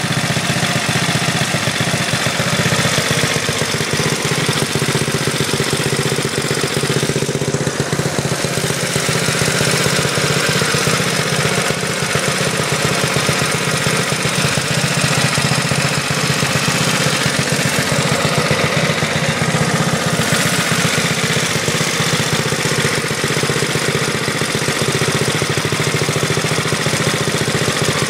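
Minibike's modified GX200-clone single-cylinder four-stroke engine running steadily through a homemade high-flow header, with no governor fitted; loud, rapid exhaust pulses.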